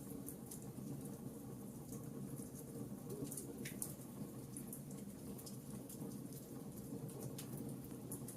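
Wood fire crackling: a soft low hiss of flames with many small, irregular pops and snaps.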